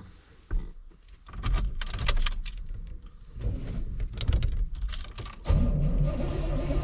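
Keys jangling and clicking, then about five and a half seconds in a 1987 Chevrolet Silverado's throttle-body-injected 350 V8 starts from cold and settles into a steady idle.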